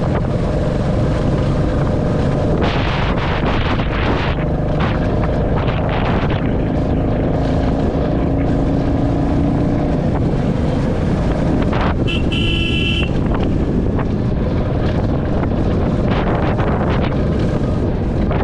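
Royal Enfield Classic 350's single-cylinder engine running steadily under way, with wind buffeting the microphone. About twelve seconds in, a horn sounds for about a second.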